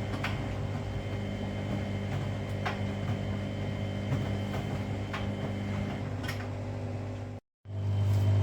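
Washing machine running with a steady low motor hum and a few faint clicks. Near the end the sound drops out briefly and comes back louder.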